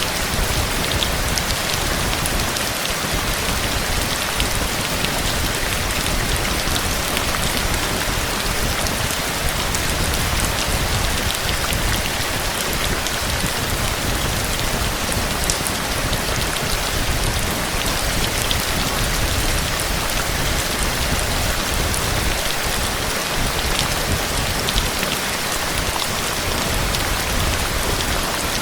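Steady rain falling, with many fine drop impacts ticking on a surface throughout; no distinct thunderclap stands out.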